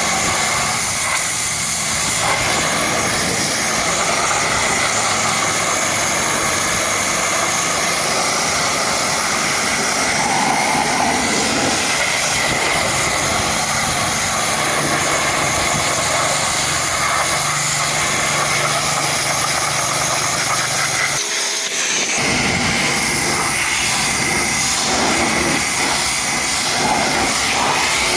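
High-pressure washer jet spraying water, a steady loud hiss with a faint low hum underneath; the low hum cuts out briefly about three-quarters of the way through.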